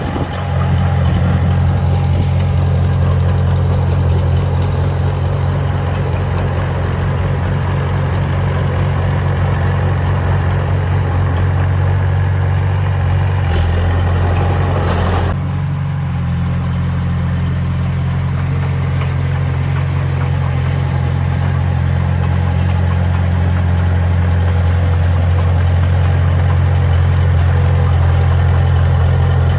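Heavy diesel engine of a construction machine running steadily at a low, even pitch. A layer of higher-pitched noise over it cuts out about halfway through.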